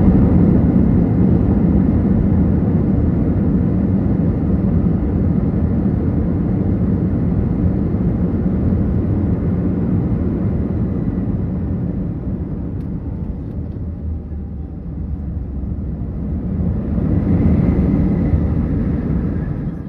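Airbus A319 engine and airflow noise heard from inside the cabin, a heavy rumble that slowly dies away, swells again briefly near the end and then drops off.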